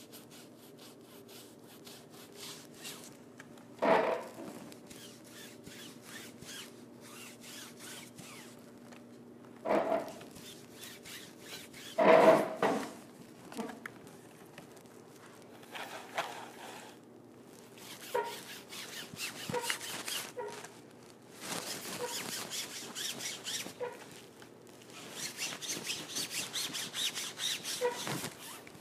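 Painting on a stage backdrop: a few knocks and bumps, then scattered taps and longer spells of a brush scrubbing and rubbing across the cloth near the end, over a faint steady hum.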